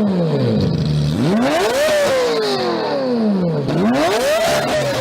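Car engine revved hard again and again: the pitch climbs quickly, then falls away slowly as the throttle is released, about three times.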